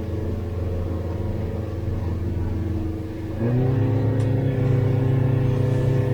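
Boat engine running steadily, then throttled up about three and a half seconds in: its pitch steps higher, it gets louder and holds at the higher speed.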